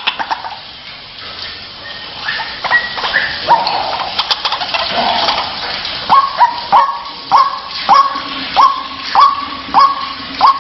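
White-breasted waterhen (ruak-ruak) calling. An irregular jumble of calls settles about six seconds in into a steady run of short, repeated notes, about two or three a second.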